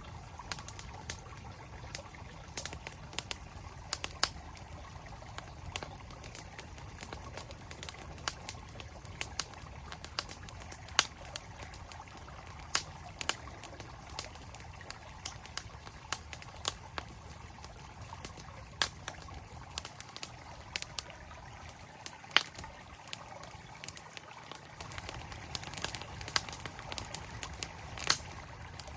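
Campfire crackling with irregular sharp pops, a few of them loud, over the steady rush of a flowing mountain stream.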